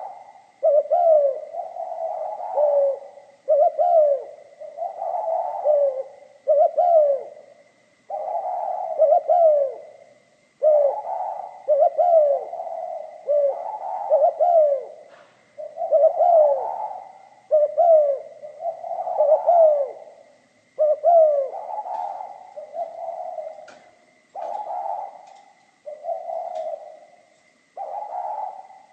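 Spotted dove cooing over and over in the 'giọng pha kim' (mixed, metallic-toned) voice, phrases about a second long with short breaks between them.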